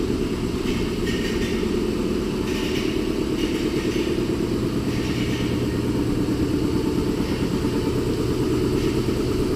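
Air compressor running steadily: a low mechanical drone with a higher hiss that swells and fades every second or so.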